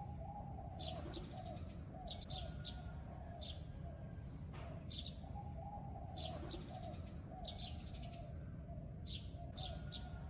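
Birds chirping in clusters of short high notes, over a lower call of quick arching notes repeated in runs.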